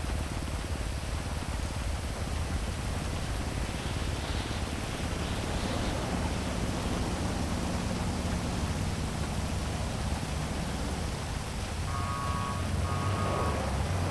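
Heavy rain falling steadily over a low city traffic rumble. A vehicle's engine drone rises in the middle, and two short high tones sound near the end.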